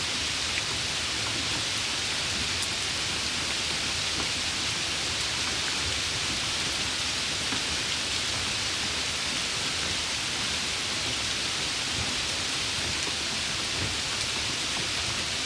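Steady rain falling, an even, unbroken hiss strongest in the upper range, with a few faint drop ticks.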